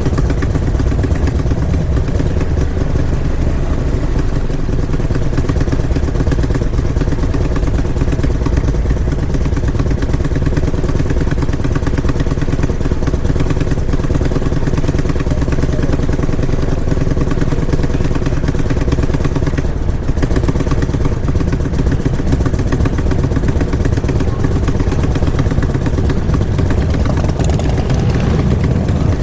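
Motorcycle engine running at a steady, low pitch with a strong low rumble.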